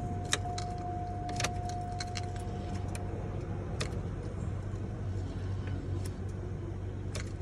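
Keys jangling and clicking in the ignition switch of a 2002 Cadillac DeVille as the key is worked, with no starter crank and no engine start: the ignition lock cylinder is bad. A steady tone stops about three seconds in, over a low hum.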